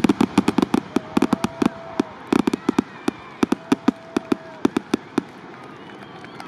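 Fireworks finale: a rapid barrage of sharp bangs and reports that thins out and stops about five seconds in.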